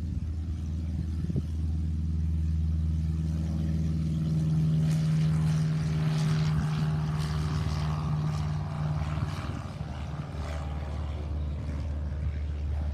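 An engine running steadily with a low hum. A louder, hissier engine sound swells from about four seconds in and fades again around ten seconds.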